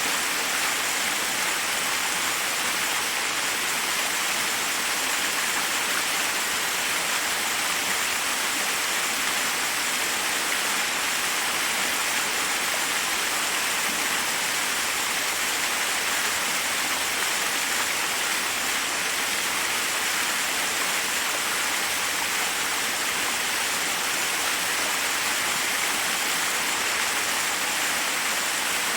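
Forest waterfall: water rushing steadily over rocks, an even, unbroken hiss with little deep rumble.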